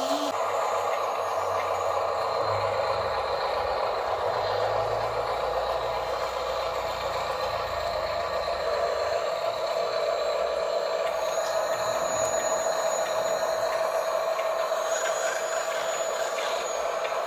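Electric motors and gearboxes of RC construction models running, a steady whine with a low hum in the first half.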